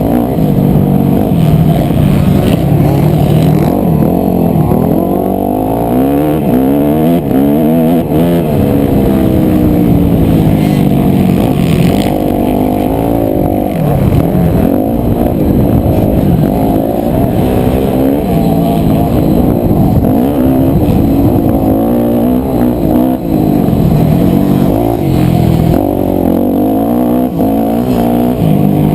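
250cc four-stroke single-cylinder motocross bike engine running hard, revving up and dropping back over and over as the throttle is opened and shut through gears and corners. The sound is muffled, with little above the engine's low tones.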